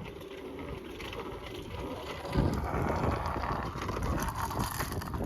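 Wind rushing over the microphone and road noise while riding a bicycle along a street, getting louder about two and a half seconds in.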